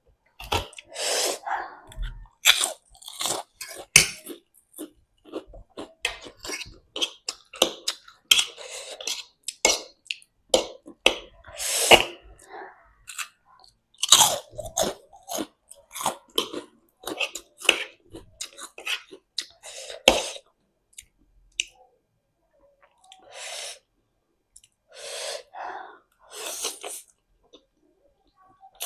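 Close-miked chewing of spicy instant noodles, mouthful after mouthful in irregular bursts. It is dense for most of the stretch, then thins to a few scattered chews with pauses in the last several seconds.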